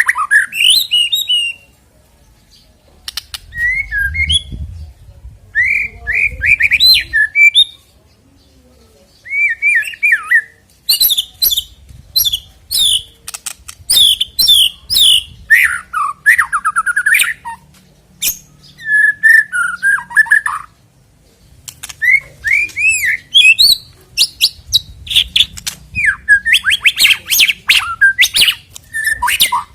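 White-rumped shama (murai batu) singing: loud bursts of varied whistled phrases mixed with rapid chattering notes, broken by short pauses of a second or two.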